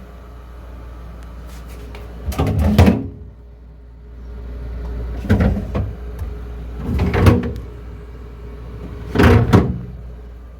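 Kitchen doors being opened and shut: four short bangs with rattling, spaced a couple of seconds apart, over a steady low hum.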